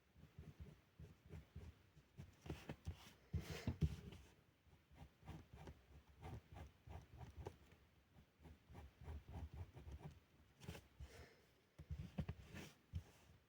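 Felt-tip pen drawing on paper: many short, faint strokes and taps, with a louder run of scratchy strokes about three to four seconds in.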